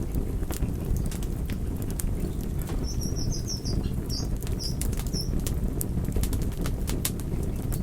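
Wood fire crackling: a steady low rumble of burning with frequent sharp pops and snaps, and a brief run of short high chirps about three to five seconds in.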